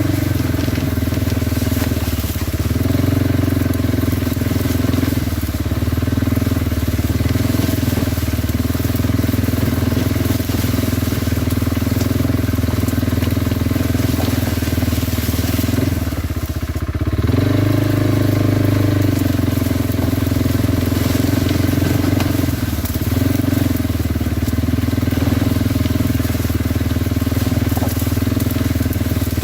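Kawasaki Brute Force 300 ATV's single-cylinder engine running steadily while riding. It eases off and picks up again a few times, most clearly about halfway through, where the pitch drops and then climbs back.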